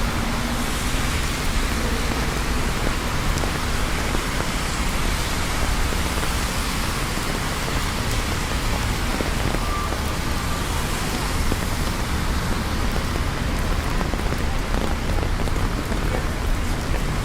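Steady rain falling on city surfaces, a dense, even hiss with a low rumble of traffic beneath it.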